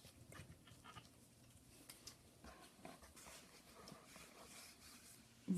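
Faint, scattered small clicks and soft rustling: gloved hands handling an opened iPhone and its new screen.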